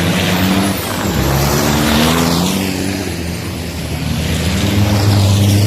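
Racing trucks' engines running past on the circuit, their pitch dropping as one goes by about two seconds in, then a deeper engine note swelling near the end.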